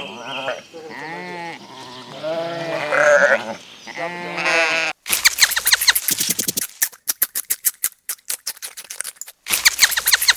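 Bleating from sheep or goat-like livestock: several wavering pitched calls, one after another. About five seconds in it cuts abruptly to pigs grunting in a fast run of short noisy grunts, with a pause of a few seconds before they start again near the end.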